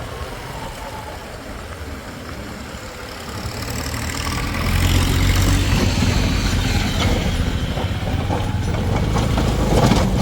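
Heavy machinery's diesel engine running, growing louder about four seconds in and staying loud, with a few sharp clanks near the end.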